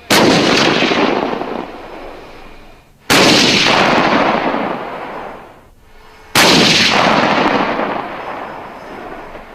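Three heavy gunshots about three seconds apart, each a sudden blast followed by a long echoing tail that dies away over two to three seconds.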